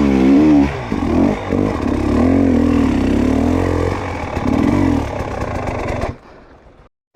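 Dirt bike engine revving up and down under the throttle, its pitch rising and falling over and over, then cutting off suddenly about six seconds in.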